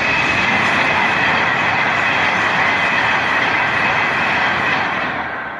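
Train passing close by: a loud, steady rush of wheels on rail with a high ringing note over it, easing off near the end as the train goes by.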